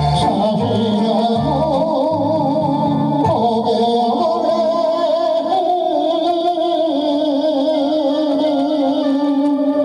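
Old Korean popular song: a melody sung with heavy vibrato over band accompaniment, with plucked bass notes in the first few seconds.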